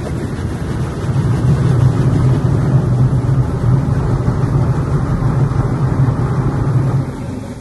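Touchless automatic car wash running: a loud, steady rush with a low hum that drops off sharply about seven seconds in.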